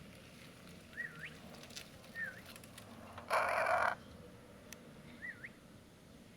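Parrot giving short swooping whistles, with one loud squawk lasting about half a second near the middle.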